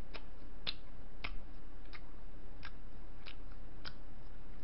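Chewing close to the microphone: short crisp crunches about every two-thirds of a second over a low steady hum.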